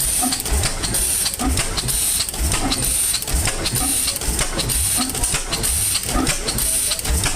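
Old Evans Manufacturing Company engine running on its own at a slow, even beat of about two firing knocks a second, with a steady hiss over it.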